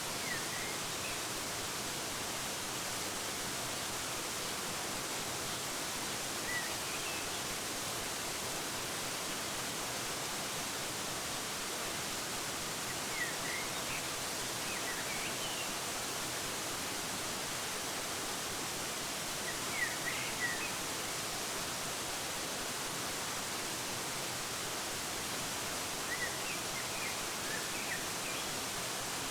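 Waterfall rushing steadily, with small birds chirping briefly now and then: a few short high chirps near the start, around a quarter and half way through, and a cluster near the end.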